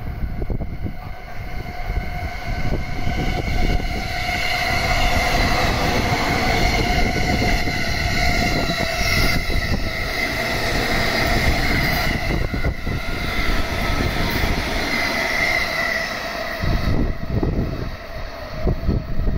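E217-series electric commuter train passing through the station at speed without stopping. Its wheels rumble on the rails, and from about four seconds in steady high tones ring over the rumble, with a few sharp rail-joint clicks. The sound eases off near the end.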